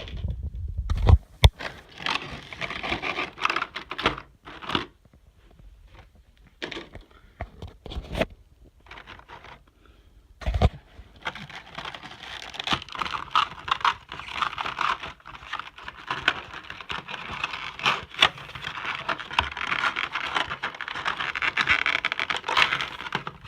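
Packaging being handled and unwrapped by hand: crinkling and rustling with several sharp clicks and knocks. It goes quiet for a few seconds near the middle, then crinkles steadily again.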